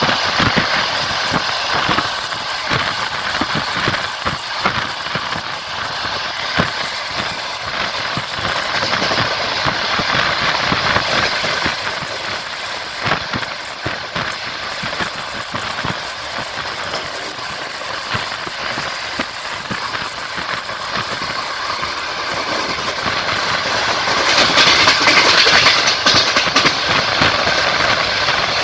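Train wheels clattering over the rail joints as the train runs along, with a steady rolling rush and many sharp clicks. The rushing grows louder for a few seconds about three quarters of the way through.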